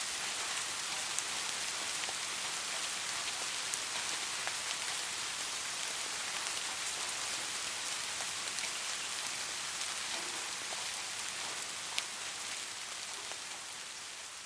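Steady rain falling, an even hiss with scattered individual drops ticking, one sharper drop about twelve seconds in. It grows gradually quieter near the end.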